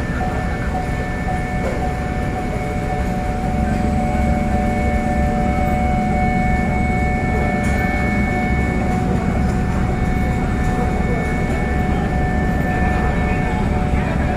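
Express ferry's engines running: a steady low rumble with a few steady whining tones above it, growing a little louder about four seconds in.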